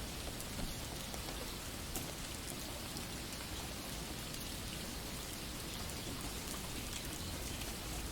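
Steady rain falling, an even patter with scattered louder single drops.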